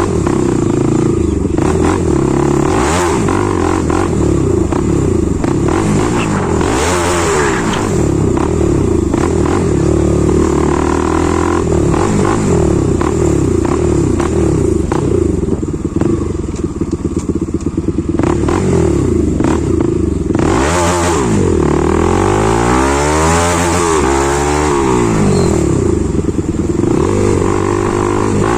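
Bajaj Pulsar NS200's single-cylinder engine through an aftermarket exhaust, loud, ridden with the revs rising and falling repeatedly. There is a run of quick rev rises and drops about two-thirds of the way through.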